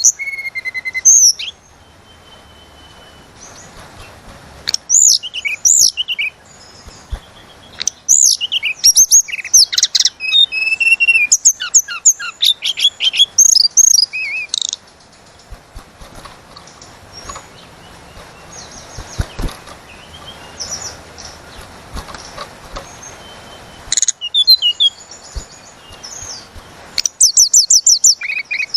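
Tledekan gunung singing: quick runs of high, sharp chirps and whistled trills in loud bursts, with a quieter stretch of scattered whistles in the middle.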